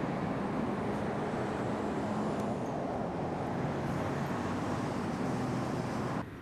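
Steady rumble of road traffic with a low engine hum, cutting off suddenly about six seconds in.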